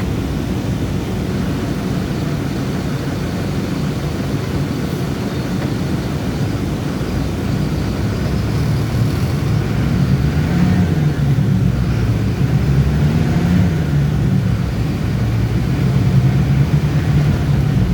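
City bus's diesel engine running while under way, over steady road noise. From about eight seconds in, its pitch rises and falls several times and it gets a little louder.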